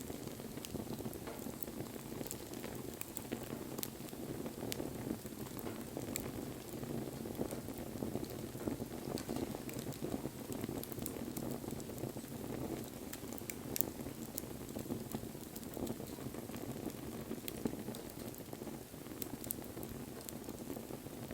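Wood fire burning, a steady low rush of flames with scattered sharp crackles and pops.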